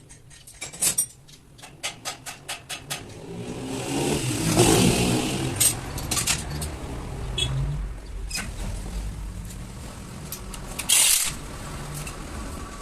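Massey Ferguson 285 tractor's diesel engine being cranked in a run of quick clicks, catching and revving up about four seconds in, then running steadily. A brief loud hiss comes near the end.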